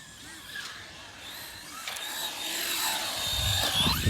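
Electric RC car motor whining as the car is driven, its pitch rising and falling with the throttle and growing louder as it comes closer.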